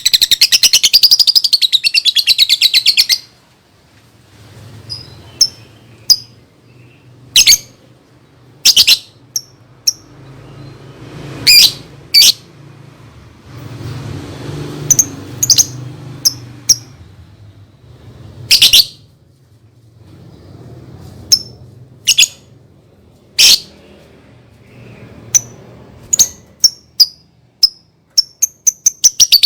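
Lovebird calling: a rapid run of shrill chattering for the first few seconds, then sharp single chirps spaced out, and a quicker string of chirps near the end, over a faint low hum.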